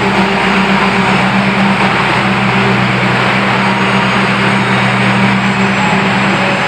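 Steady running noise of a moving train, heard from inside: an even rumble with a constant low hum beneath it and no sudden knocks.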